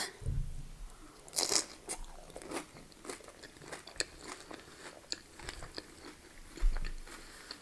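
Crunching and chewing of a loaded tortilla-chip nacho: a loud crunching bite about a second and a half in, then many small crisp crunches as it is chewed.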